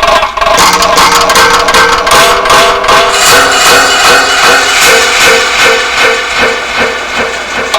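Homemade noise box played by hand as a noise improvisation: dense clattering and scraping clicks over short, wavering pitched tones that repeat about twice a second in the second half.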